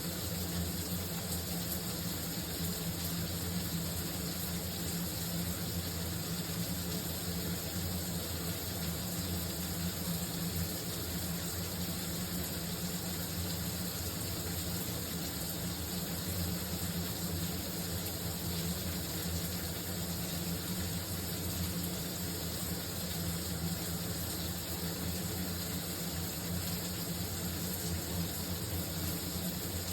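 Shower running: a steady, unbroken spray of water with a low hum underneath.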